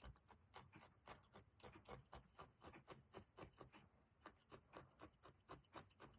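Felting needle stabbing repeatedly through wool roving into a foam block: faint, quick, scratchy pokes about four to five a second, with a short pause about four seconds in.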